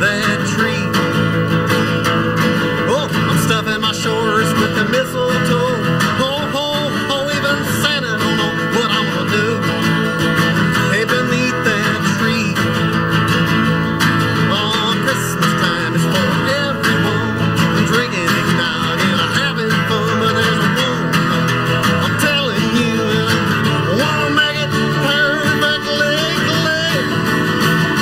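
A band playing live on acoustic guitars, strummed and picked steadily.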